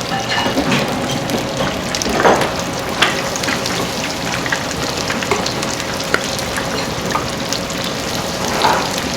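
Food deep-frying in hot oil, most likely tempura: a steady sizzle dense with small crackles and pops, with a couple of louder pops about two and three seconds in, over a faint steady hum.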